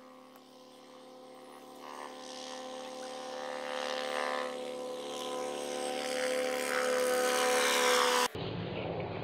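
Helicopter approaching, its rotor and engine growing steadily louder over about eight seconds, then cutting off suddenly near the end.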